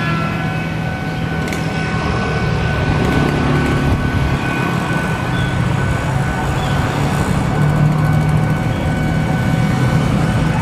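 Motor vehicles running steadily at a railway level crossing, with a continuous high-pitched tone over the hum.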